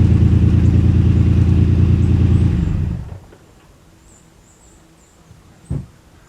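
1991 Ford Explorer's 4.0-litre V6 running steadily, then switched off about three seconds in. A single thump follows near the end.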